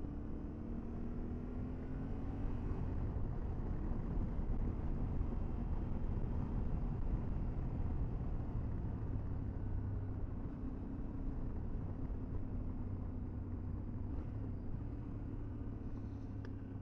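Motorcycle engine running steadily under way, its note easing down slightly in the first few seconds, under a low rumble of wind on the helmet camera's microphone.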